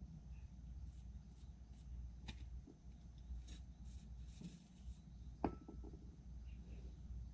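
Faint handling of tools and parts: a few light clicks and a short rustle, then one sharp metallic click with a brief ring about five and a half seconds in, over a steady low rumble.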